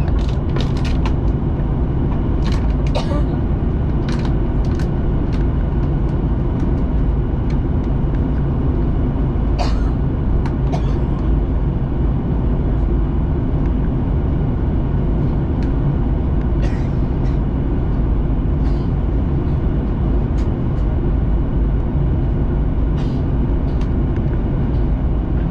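Steady cabin roar of a Boeing 737-800 airliner in flight on descent: CFM56-7 turbofan engines and rushing airflow, heard from a window seat, with scattered light clicks and knocks from the cabin.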